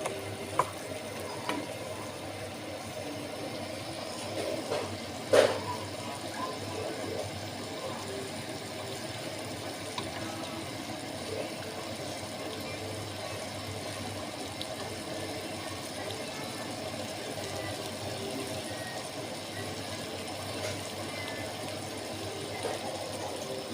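Steady low background noise with a few sharp clinks, the loudest about five seconds in.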